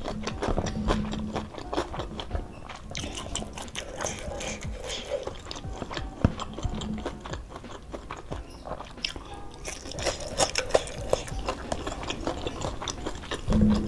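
Close-miked eating sounds: chewing and lip-smacking on a mouthful of rice and spicy food, with many small wet clicks.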